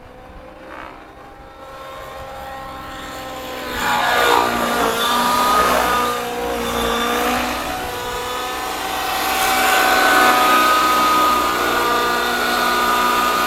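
Gaui NX7 nitro-engine RC helicopter running in flight, its engine and rotor growing louder from about two seconds in. Its pitch swings down and back up around four seconds in.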